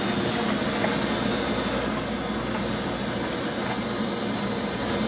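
Steady drone of running machinery with rushing air and a low hum, the constant background of a laundromat.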